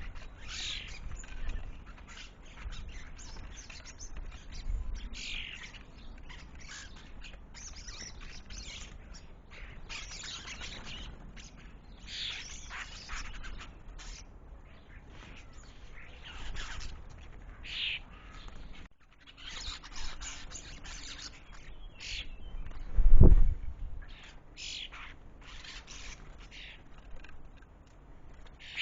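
Birds chirping and calling again and again in short, scattered notes. There is a single low thump about two-thirds of the way through.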